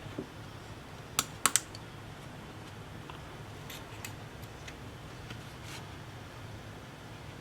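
Small hard clicks and taps of hand work on a tablet under repair: three sharp clicks close together a little over a second in, then a few fainter ticks, over a steady low hum.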